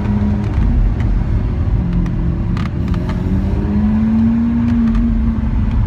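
Lamborghini Aventador SV's V12 engine running at low revs while the car creeps in traffic, heard from inside the cabin. Its steady hum dips slightly about two seconds in and climbs a little about four seconds in, with a few faint clicks.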